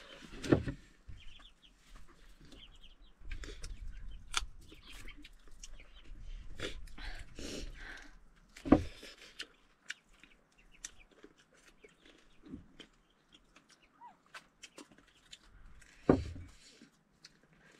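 Close-up eating sounds: irregular wet mouth clicks and smacks while chewing roasted meat, with a few louder knocks and crunches.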